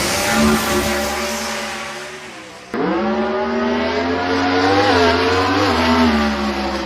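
Drag-racing Mustang's engine accelerating hard, its pitch climbing and then fading away. About three seconds in, an abrupt cut brings in a second run, where the engine climbs again, wavers briefly and fades.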